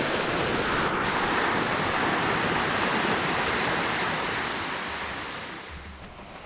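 Waterfall water plunging and splashing into its pool: a steady, loud rush that fades down near the end.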